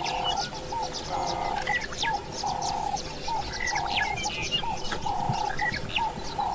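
Birds calling: a low call repeated steadily a little over once a second, with many short, high chirps over it.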